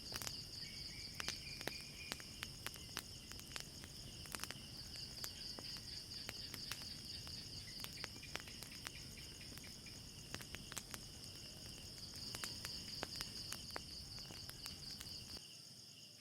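Crickets trilling steadily at night over a crackling fire giving off frequent sharp pops, with everything starting to fade out near the end.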